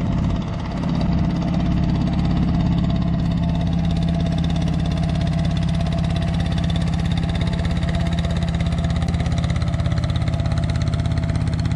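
A 250cc motor tricycle's engine running steadily at one speed with a fast, even pulse, after a brief change in pitch in the first second.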